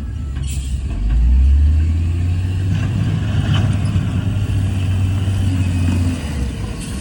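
Heavy earthmoving machine's diesel engine running under load, a deep steady rumble that grows louder about a second in and eases slightly near the end.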